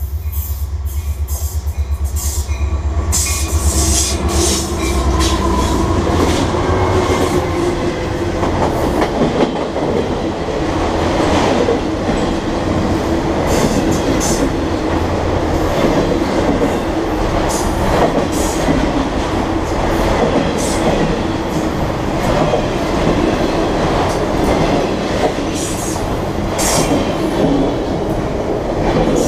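CSX freight train passing close by: a low diesel locomotive throb for the first several seconds, then a long string of autorack cars rolling past with a steady rumble and wheels clacking over rail joints.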